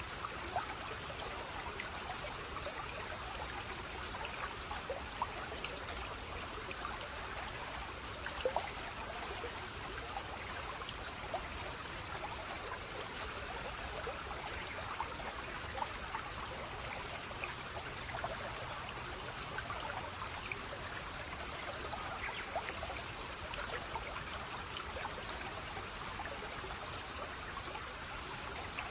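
Shallow stream of water trickling and babbling steadily, with many small splashy plinks.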